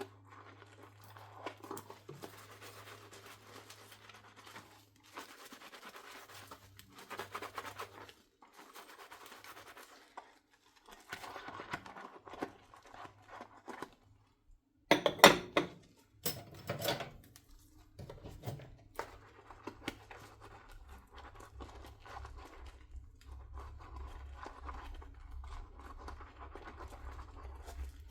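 Dishes being washed by hand: a sponge scrubbing in stretches of strokes, with two loud sharp clinks of dishware about halfway through. A low steady hum comes in for the later part.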